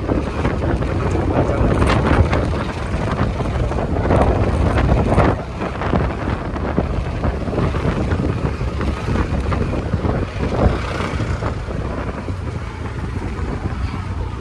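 Steady vehicle engine and road noise, with wind buffeting the microphone and scattered clicks. The level dips slightly about five seconds in.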